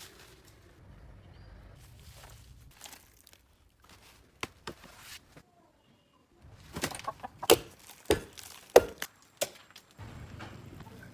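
A run of sharp knocks and clicks, scattered at first and then coming thick and fast over a few seconds in the second half, against a faint background.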